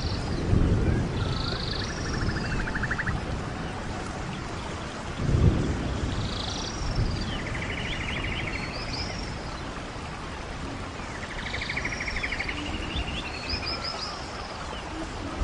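Birds chirping, with short calls and rapid trills repeating every few seconds over a low, rumbling wind-like noise that swells about five seconds in.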